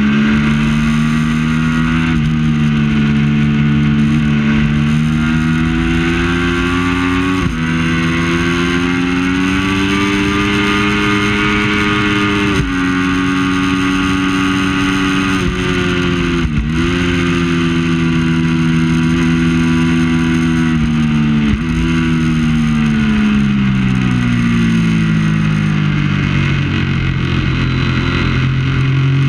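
Triumph Daytona 675 three-cylinder engine heard onboard at race pace. Its pitch climbs through the revs and drops abruptly at a string of gear changes, with a long fall as it slows and then a rise again near the end.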